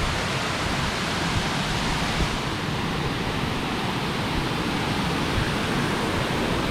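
Steady rush of water falling over a river cascade.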